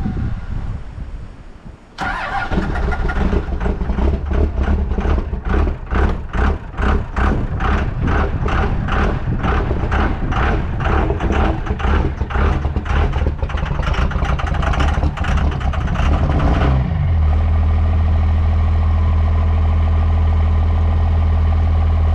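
Cold vehicle engine, sitting two weeks in below-freezing weather, starting about two seconds in. It runs unevenly with about two pulses a second for some fifteen seconds, then settles into a steady idle.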